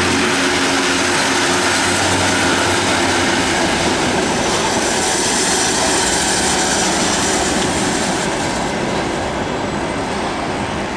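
Freight train rolling past with steady wheel-on-rail noise, easing off slightly near the end.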